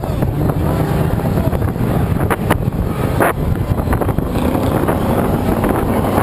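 Engines of 1450-class off-road race trucks running on the dirt track, with wind buffeting the microphone and a few sharp clicks partway through.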